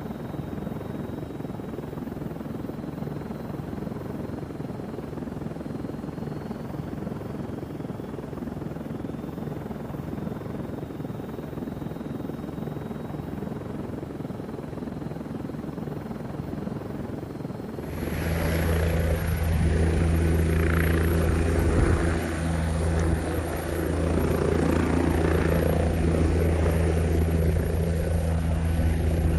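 Helicopter noise: a steady rushing drone. About two-thirds of the way through it cuts abruptly to a louder recording with a steady low hum.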